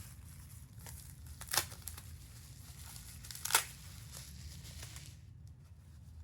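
Hand unwrapping a packed figurine: faint crinkling of wrapping, with two short sharp rips about two seconds apart, the second the louder.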